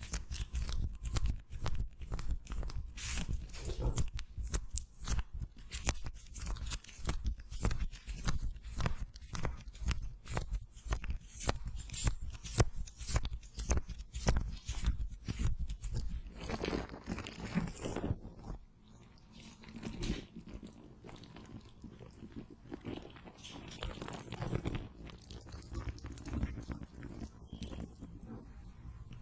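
Cooling gel patches being wrapped around and pressed on a microphone: a close, dense sticky crackling and crinkling. About two-thirds of the way through the crackle thins out into softer, slower rubbing sweeps.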